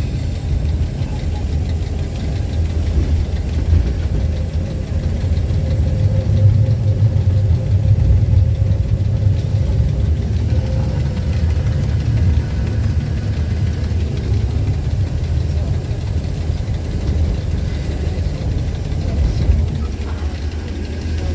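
EMD G16 diesel-electric locomotive's V16 two-stroke diesel engine running steadily with a deep rumble.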